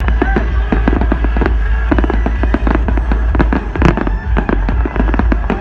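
Fireworks display: rapid, overlapping bangs and crackles from aerial shells bursting, over a steady low rumble.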